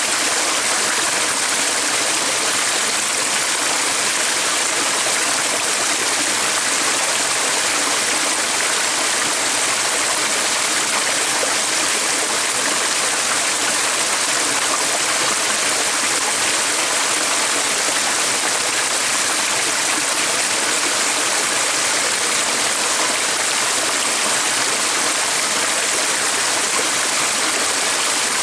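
Running water, a steady even rush with no breaks or changes.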